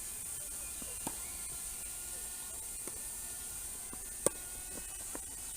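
Tennis rally on a grass court: a string of sharp racket-on-ball pops, irregularly spaced, the loudest a little past four seconds in, over a steady high hiss.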